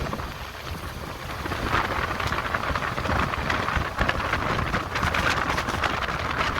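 Running noise of a moving passenger train heard from on board, a steady rumble with irregular clatter, and wind buffeting the microphone.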